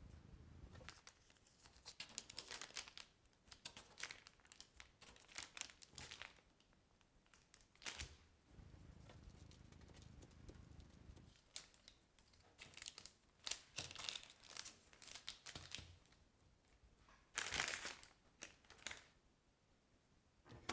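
Quiet crinkling and rustling of material being handled at close range, in irregular spurts, with a longer, louder rustle near the end.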